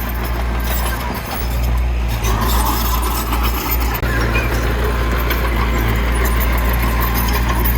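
Heavy earthmoving machinery's diesel engine running steadily at a low pitch, with some rattling and clanking over it.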